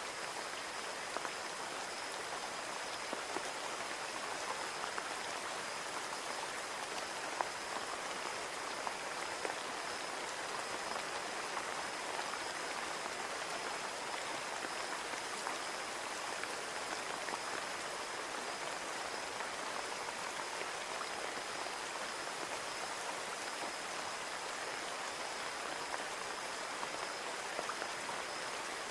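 Steady rain on a window pane, an even hiss with scattered individual drops tapping.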